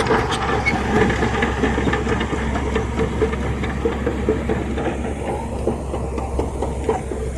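Heavy diesel earthmoving machine running: a steady low engine drone under dense, irregular metallic clanking and rattling. The higher rattle thins out a little about five seconds in.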